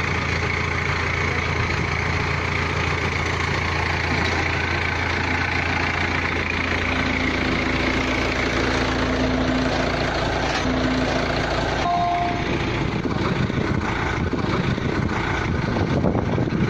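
Engine of a pneumatic drilling rig running steadily. Its low note shifts about twelve seconds in, with a brief higher whine.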